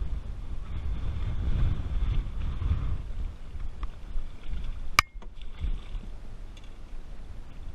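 Wind buffeting the microphone: a gusty low rumble, strongest in the first three seconds. A single sharp click comes about five seconds in, and the rumble drops away for a moment after it.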